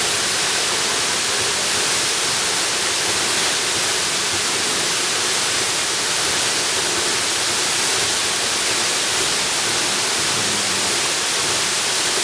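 Waterfall: a steady, dense rush of falling water, an even hiss with no breaks.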